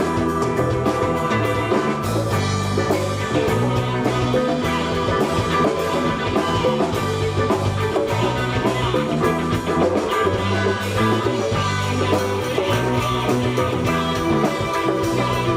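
Live band playing an instrumental break: electric guitar, bass and drum kit with a steady beat.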